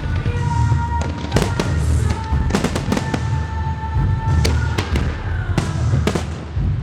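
Fireworks display with many sharp bangs and crackles following one another, over a continuous low rumble. Music plays underneath, with held notes.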